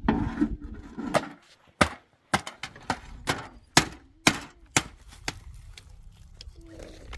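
Wood being chopped: about ten sharp blows, roughly one every half second, starting about a second in and stopping near five seconds.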